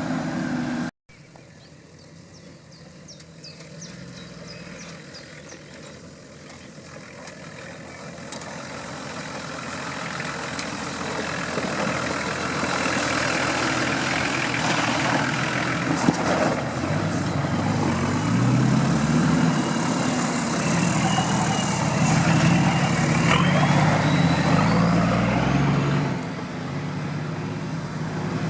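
An off-road vehicle's engine grows steadily louder as it approaches, then its pitch rises and falls with the throttle under load before the sound drops off sharply near the end. There is a brief dropout about a second in.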